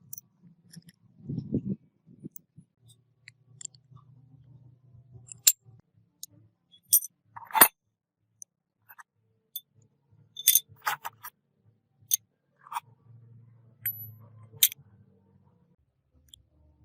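Small metal parts clinking and clicking against each other as they are handled, with a handful of sharp separate clinks and a faint low rumble of handling between them.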